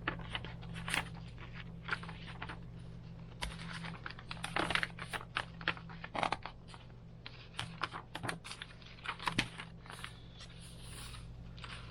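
Paper and cardstock handling: pages of a handmade junk journal being turned and small cards slid in and out of paper pockets, a run of irregular rustles, scrapes and light taps over a low steady hum.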